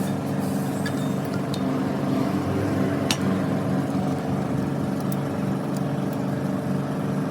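An engine running steadily at an even speed, with a few faint clicks over it, the clearest about three seconds in.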